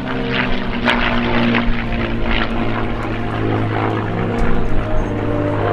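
P-51 Mustang's liquid-cooled, Packard-built Rolls-Royce Merlin V12 engine and propeller running steadily during a display flight.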